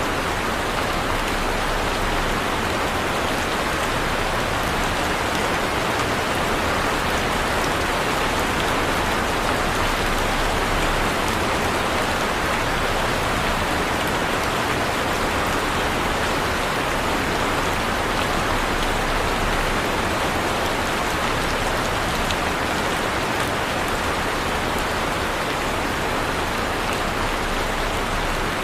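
Heavy rain falling steadily, an even hiss of dense raindrops on surfaces with no thunder or breaks.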